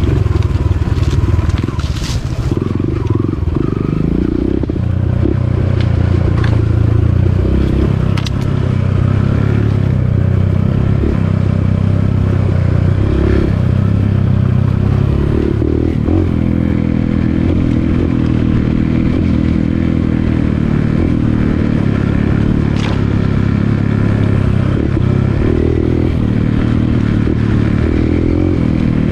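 Dirt bike engine running under way, its revs rising and falling, with a few sharp knocks and rattles from the bike.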